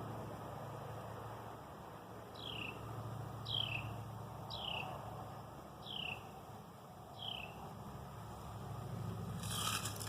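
A small animal's high chirp, repeated five times about a second apart, each call sliding quickly down in pitch, over a steady low hum. Near the end comes a brief crackling rustle.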